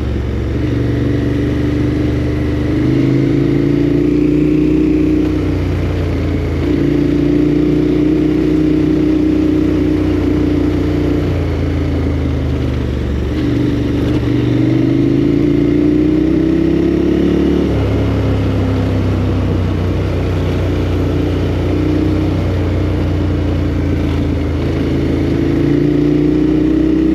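KTM 1290 Super Adventure R's V-twin engine running under way. Its pitch steps up and down with throttle and gear changes, climbing for a few seconds midway and then dropping sharply.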